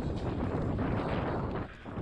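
Wind rushing over the microphone and mountain bike tyres rolling over a rough dirt trail, an even rushing noise that dips briefly near the end.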